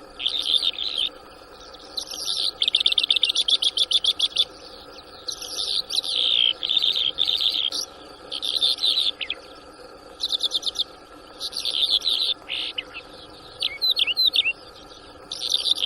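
Bimaculated lark singing: phrases of rapid chirps and trills, each a second or two long, with short pauses between them.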